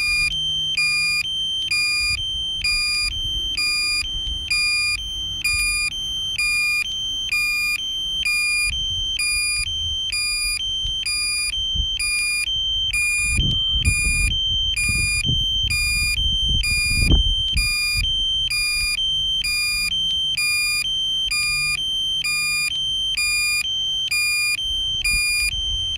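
DJI drone remote controller sounding its critical-low-battery alarm: a high-pitched beep repeating evenly, a little more than once a second, while the drone is forced to land. Low rumbling noise comes and goes underneath, strongest about halfway through.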